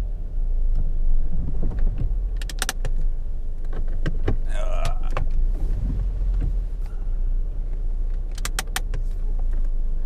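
Car engine running with a steady low rumble, heard from inside the cabin as the car is moved slowly. A few sharp clicks come about two and a half seconds in and again near the end, with a brief squeak around the middle.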